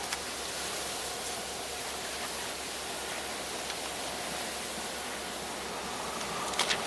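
Steady rushing noise of a train passing close by, with a couple of sharp clicks near the end.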